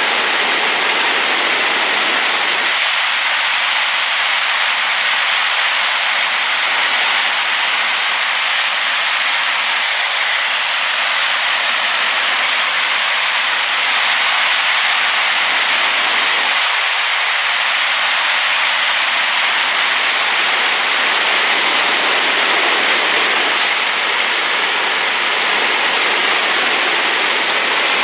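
Waterfall on a rain-swollen river, a loud steady rush of falling water.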